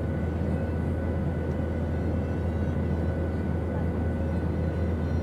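Steady drone of an airplane in flight: an even, unbroken low rumble with a hiss above it and a few faint steady tones.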